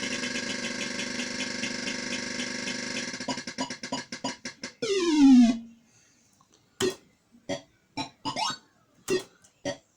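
Electronic sound effects from a Cashcade 2p arcade gaming machine. A steady synthesized tune breaks into a run of quickening pulses and a loud falling sweep about five seconds in, then single electronic blips every half second or so.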